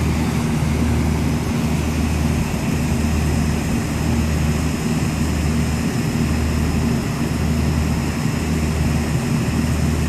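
Air-conditioning machinery running: a steady low hum with a slow throb about once a second, under fan hiss.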